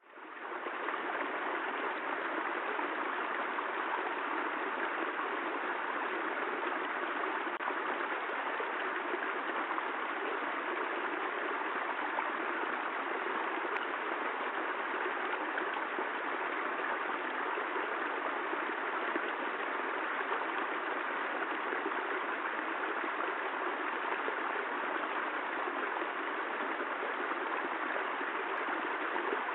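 Steady rain, an even hiss of falling water that fades in over the first second and then holds constant.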